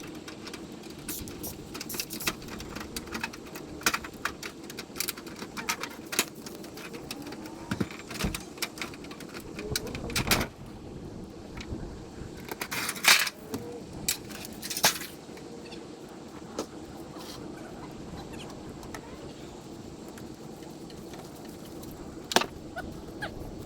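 Irregular clicks, taps and knocks of tools and building materials being handled, with a few louder knocks, over a steady low hum.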